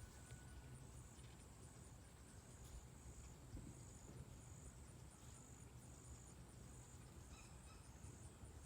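Near silence with a faint, high insect trill pulsing steadily, and a few faint short chirps near the end.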